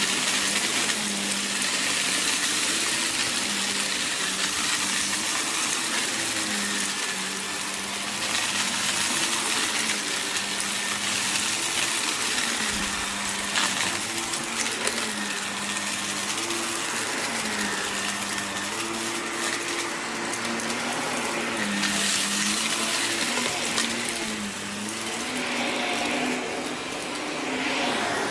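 Vacuum cleaner running on a rug: a steady rushing whine over a motor hum whose pitch dips and comes back up every few seconds.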